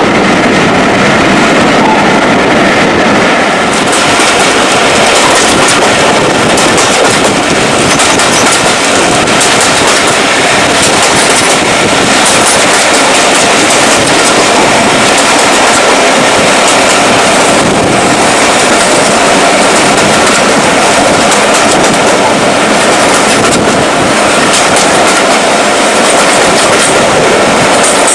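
Train running steadily along the track, its wheels clicking over the rail joints with a continuous rumble and hiss of running noise.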